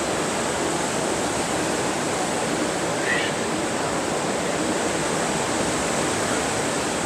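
Steady hiss of ocean surf on a beach, with a faint short chirp about three seconds in.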